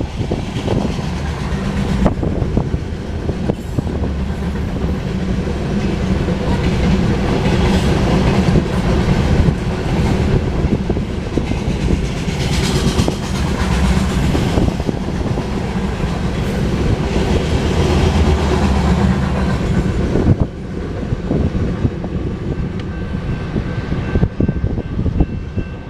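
Empty grain hopper cars of a freight train rolling past, their wheels clicking and clattering over the rail joints. The sound drops in level about 20 seconds in.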